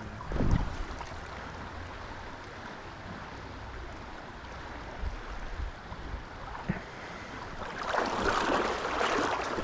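River water rushing steadily over a riffle, swelling louder for a couple of seconds near the end.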